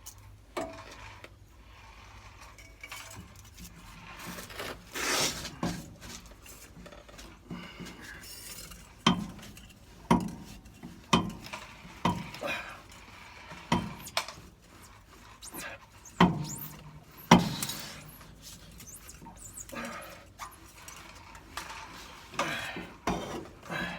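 Metal clinking and clanking as hand tools and metal hose clamps are handled while fuel hoses are refitted on an RV fuel tank. It comes as a series of sharp, separate clinks, the loudest bunched in the middle, with a longer scraping rustle about five seconds in.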